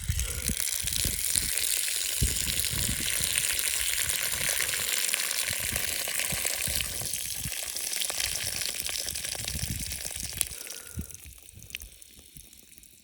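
A woman urinating outdoors: a steady hissing stream that starts abruptly, then tapers off and fades out about eleven seconds in. Wind buffets the microphone with low, uneven rumbles underneath.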